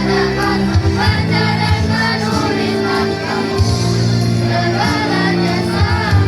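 Children's choir singing over backing music with a steady bass line.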